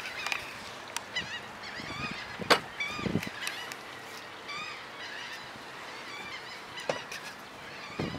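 Birds calling repeatedly in short, rising-and-falling calls over steady background noise, with one sharp knock about two and a half seconds in and a few fainter clicks.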